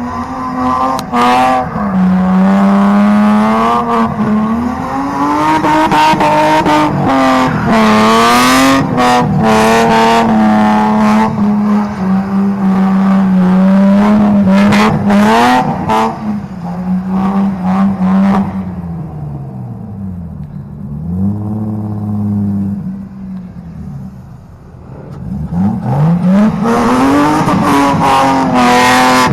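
Car engine revving hard at high rpm during burnouts or donuts, held high and wavering with repeated sharp cuts, likely from the rev limiter. About two-thirds of the way through the revs drop and it goes quieter for a few seconds, then the engine climbs back up near the end.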